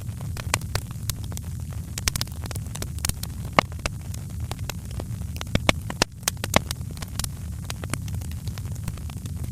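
Fireplace fire crackling: irregular sharp pops and snaps, several a second, over a steady low rumble, with a few louder snaps in the middle.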